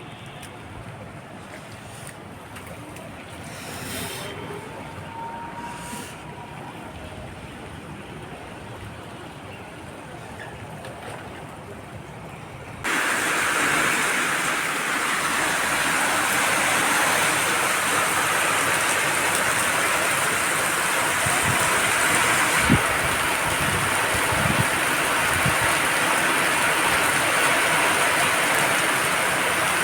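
Heavy rain pouring down as a loud, steady hiss, which sets in abruptly about 13 seconds in after a quieter stretch of background noise.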